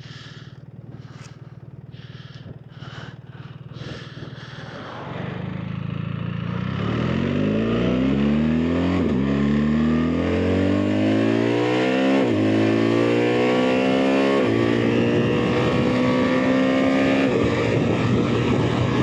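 BMW R 1300 GS Adventure's boxer-twin engine idling, with a few knocks, then pulling away and accelerating hard through the gears, the engine note rising and dropping at three upshifts about 9, 12 and 14 seconds in, before settling into a steady cruise.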